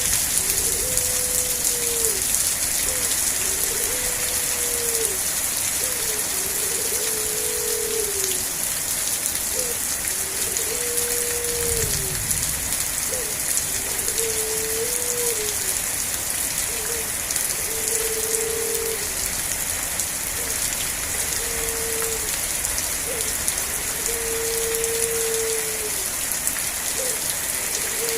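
Steady rain falling. A short low tone, some sliding slightly in pitch, repeats every one and a half to two seconds, and a brief low rumble comes about twelve seconds in.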